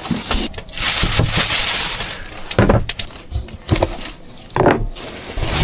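Crinkling and rustling of things being handled and moved about, with a few short knocks.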